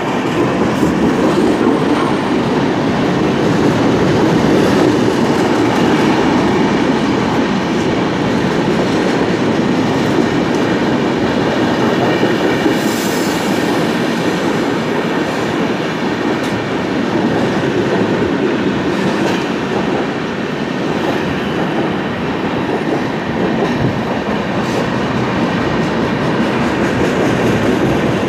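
Indian Railways passenger train coaches rolling past at speed just below, a loud steady rumble of wheels on rails with faint repeated clicks as the wheels cross the rail joints.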